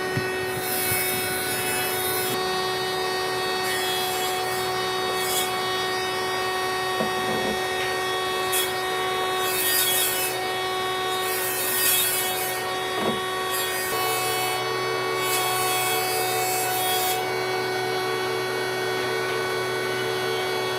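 Electric power tool running at a steady pitch while working wood, with repeated short hissing bursts as it bites into the wood.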